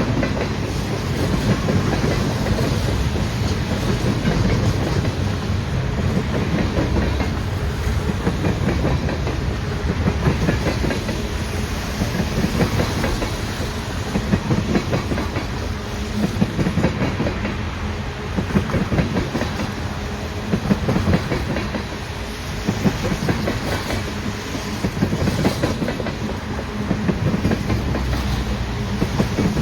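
Freight train cars rolling past steadily, their wheels clicking rapidly over the rail joints with a continuous rumble of steel wheels on rail.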